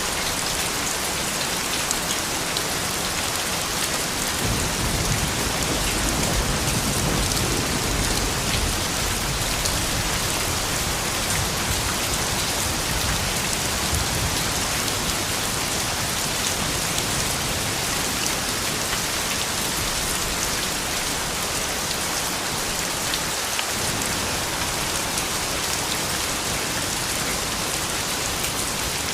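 Steady rain falling on surfaces, with scattered sharp drop ticks through the hiss.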